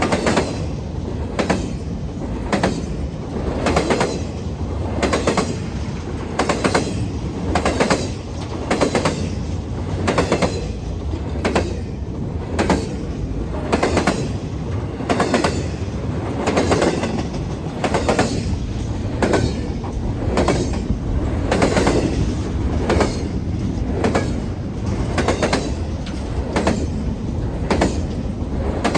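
Freight train cars rolling past, their wheels clacking over the rail joints in a steady repeating rhythm about once a second, over a continuous rolling rumble.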